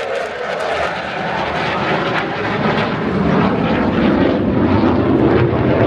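Single-engine F-16 fighter jet flying by, a loud rushing jet noise that grows louder and deeper a few seconds in.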